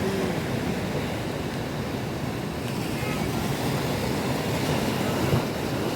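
Rough monsoon sea: surf breaking steadily under strong wind, a continuous rushing noise.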